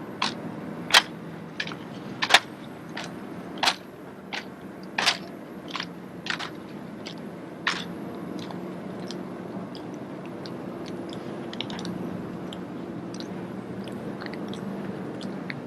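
Rifle drill routine: a run of sharp slaps and clacks from hands striking, spinning and catching drill rifles, about one every 0.7 seconds. After about eight seconds they give way to fainter, sparser clicks.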